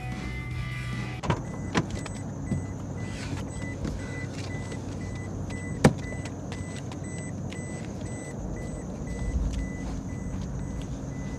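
A car engine idling with a steady low hum, broken by a few sharp knocks in the first half, the loudest about six seconds in.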